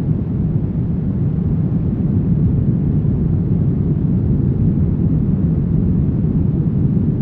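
Brown noise: a steady, deep rushing hiss weighted toward the bass, with no changes or events.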